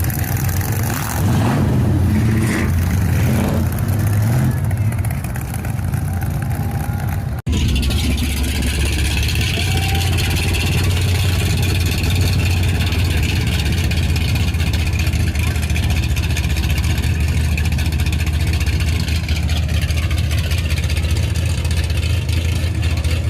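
Car engines running as cars drive slowly past, with voices mixed in. The sound cuts off abruptly for an instant about seven seconds in, then carries on.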